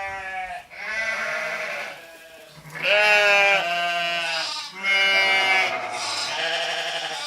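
Animals bleating, about six calls in a row, each under a second long, the loudest about three seconds in.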